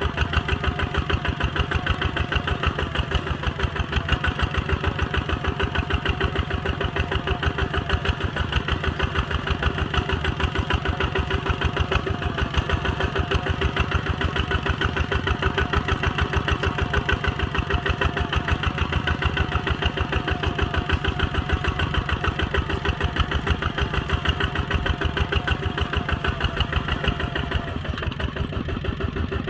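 Kubota ZT 140 single-cylinder diesel engine running steadily, its firing strokes heard as an even, rapid beat. It drops slightly in level near the end.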